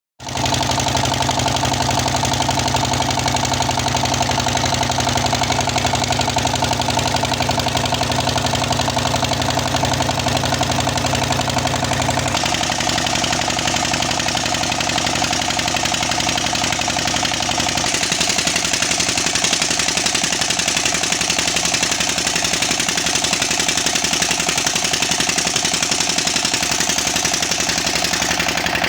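Old Petter-type stationary diesel engine running steadily with an even, fast knocking beat. Its sound shifts twice, about twelve and eighteen seconds in.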